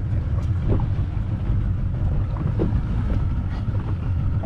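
Wind buffeting the microphone on an open boat at sea: a steady low rumble that flutters slightly in level, with a few faint light ticks.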